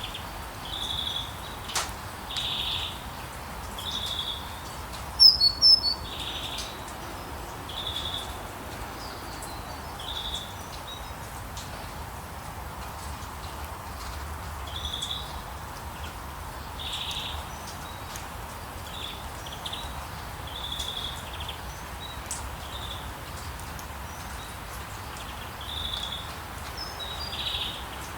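Birds calling: one short call repeated every second or two at the same high pitch, with a louder, higher flurry of chirps about five seconds in, over a steady soft background hiss.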